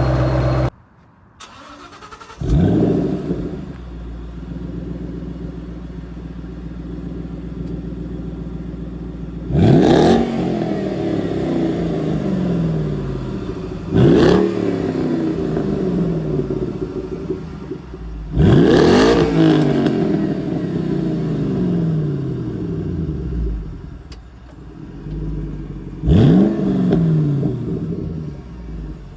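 A 2011–2014 S197 Ford Mustang with an aftermarket exhaust starting up: the engine flares up in revs and settles to a steady idle. It is then revved four times, each rev rising fast and falling back to idle, the third held longest.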